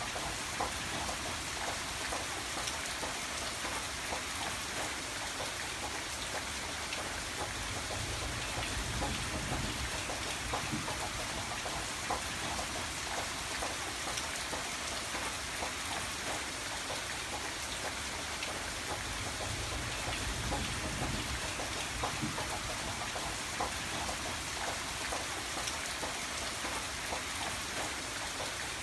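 Steady rain falling, a constant hiss of rainfall with many separate drop ticks heard through it.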